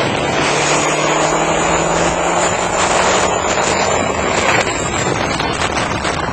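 Turbocharged Chevy Silverado V8 pickup running hard, with wind and road noise and a high, steady turbo-like whine over a steady engine tone, heard from inside the cab.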